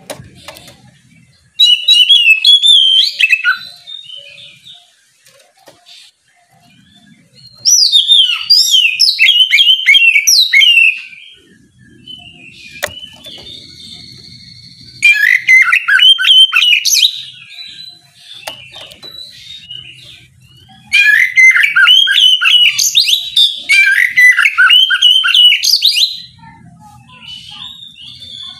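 Oriental magpie-robin (kacer) singing in four loud bursts of rapid, varied whistles and trills, with softer calls and held whistled notes in the pauses between.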